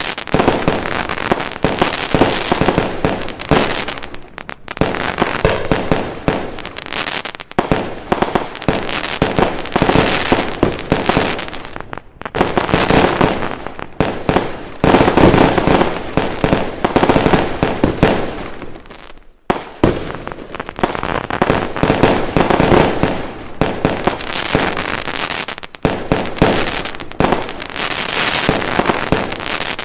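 Fireworks going off in a dense, continuous barrage of rapid bangs and crackling, with brief lulls about four, twelve and nineteen seconds in.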